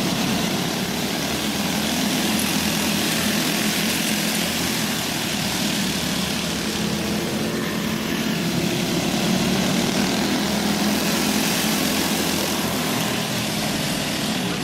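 A pack of racing go-kart engines buzzing together at steady high revs as the karts lap a dirt oval, their engine notes overlapping in one continuous drone.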